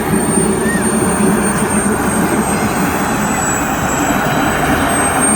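Turbine engine of an RC scale model jet running steadily: a thin high whine that drifts slightly in pitch over a constant rushing noise.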